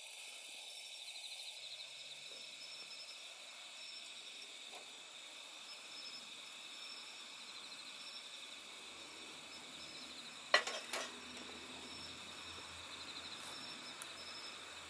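A steady chorus of night insects chirping, with repeating high trills. Two sharp clicks stand out about ten seconds in.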